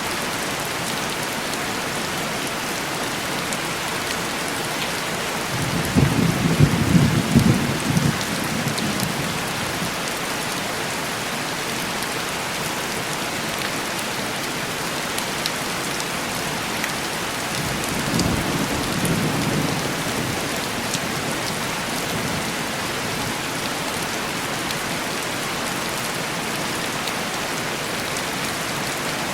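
Steady heavy rain on window glass, with a rumble of distant thunder about six seconds in and a second, weaker rumble near the middle.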